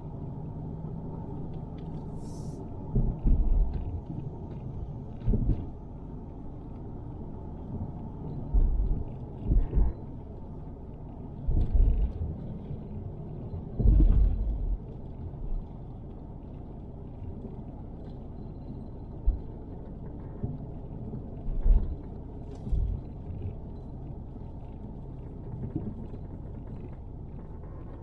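Car driving on a road, heard from inside the cabin: a steady low rumble of road and engine noise, broken by several short, louder low thumps.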